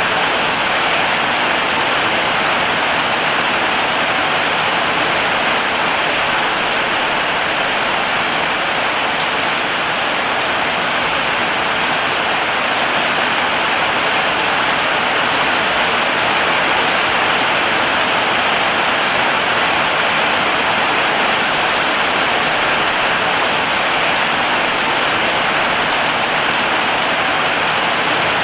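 Heavy rain falling steadily, a dense, even hiss of drops with no breaks or distinct single strikes.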